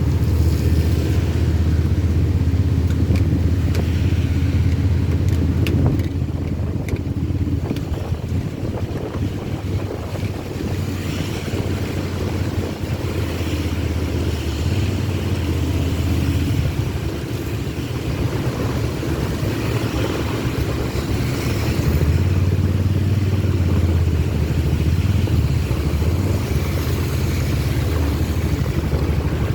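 Steady low rumble of a vehicle driving on a wet road, with a hiss of rain and tyre spray over it, a little quieter for a stretch in the middle.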